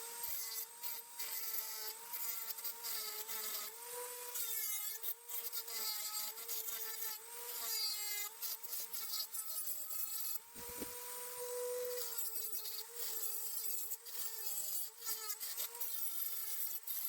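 Small high-speed rotary tool with a sanding attachment grinding the sharp cut edge of a steel chainsaw muffler: a steady motor whine with a rasping scrape as the bit works the metal. About eleven seconds in the scrape drops away for a second and the whine sounds clean.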